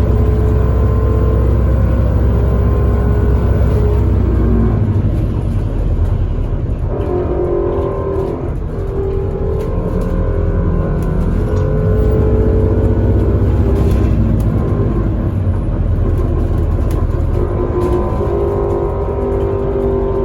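Bus engine and drivetrain heard from inside a moving bus: a steady low rumble with whining tones that shift in pitch as the bus speeds up and slows, easing off briefly about eight seconds in.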